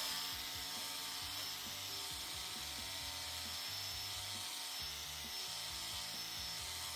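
Ryobi 18 V cordless brushless reciprocating saw with a 9-inch pruning blade running steadily while cutting through a wooden railroad tie, with a thin high whine over the rasp of the blade. Background music plays underneath.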